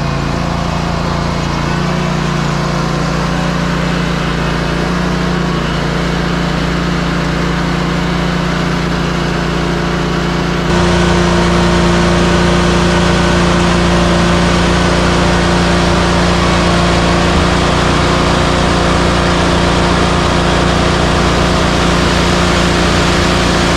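Concrete mixer truck's diesel engine running steadily under way, a constant hum; about eleven seconds in the sound abruptly steps up louder.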